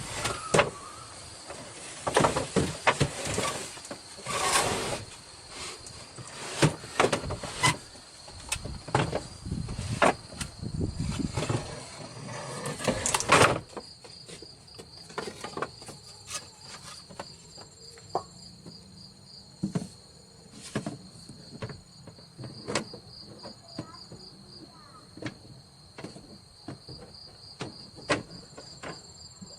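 Night insects chirping in a steady high, pulsing chorus. Over it come many sharp clicks and knocks, dense in the first half and breaking off abruptly about halfway through, then only occasional ticks.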